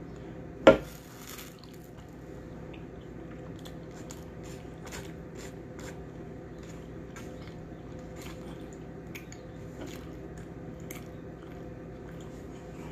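Close-up chewing and mouth sounds of a person eating oxtails and rice, with small wet clicks scattered all through. One sharp knock, the loudest sound, comes about a second in, over a steady low hum.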